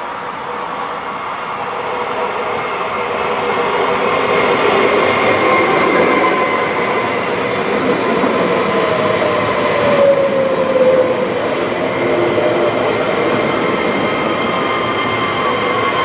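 Trenitalia Pop (ETR104) electric multiple unit approaching and passing close by, with wheel and rail noise that grows louder over the first few seconds and then holds. Whining tones from the drive slide down in pitch as it goes past.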